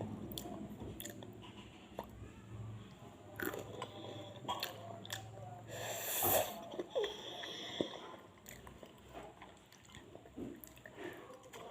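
Close-miked chewing and biting of crispy fried chicken: scattered crunches and wet mouth clicks, with a louder noisy burst about six seconds in.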